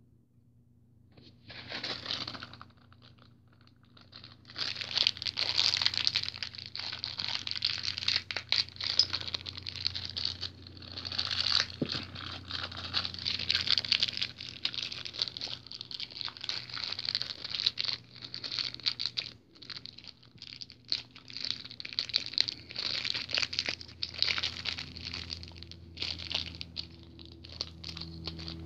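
Packaging crinkling and rustling as it is handled and unwrapped, with a little tearing. It starts briefly about two seconds in and then goes on almost without a break.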